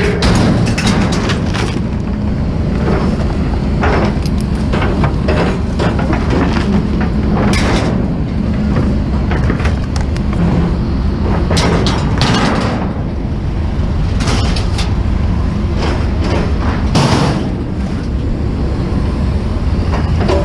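Vehicle on the move: a steady low engine and road rumble with frequent short rattles and knocks throughout.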